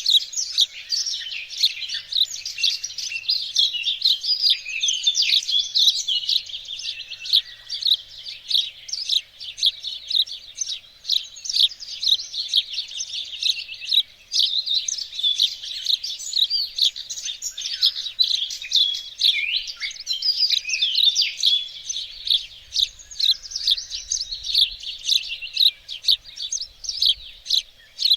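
Several small songbirds singing and chirping at once, a dense continuous chorus of quick high twitters and trills.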